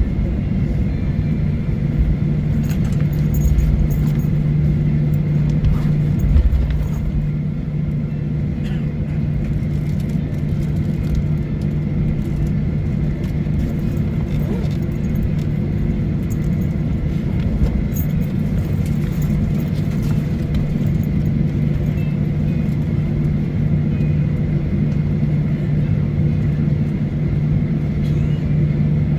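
Boeing 737-900ER cabin noise: the CFM56-7B engines' steady hum over a low rumble, with a few low thumps and small rattles in the first seven seconds.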